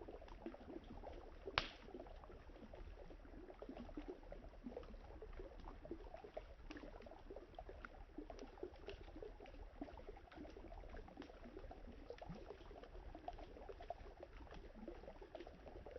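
Wood campfire crackling, with scattered small pops and one sharp loud pop about a second and a half in, over the gurgling of flowing river water.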